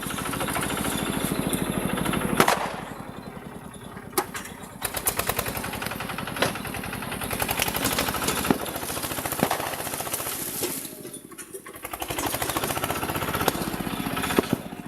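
Tractor engine running with a fast, even chugging, easing off twice, about two and a half seconds in and again near eleven seconds, then picking up again. A few sharp cracks stand out over it.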